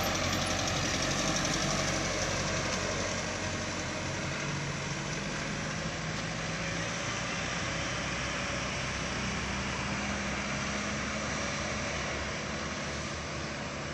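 Truck engine running steadily with road noise, a low, even engine hum under a broad hiss with no sharp changes.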